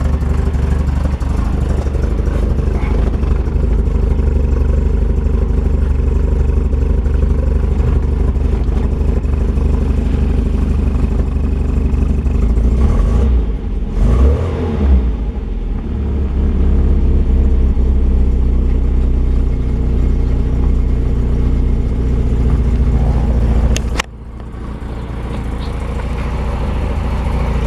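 1970 MGB GT's 1.8-litre four-cylinder engine idling steadily shortly after a cold start without choke. About halfway through, the engine note rises and falls briefly. Near the end a sharp click comes and the engine sounds quieter after it.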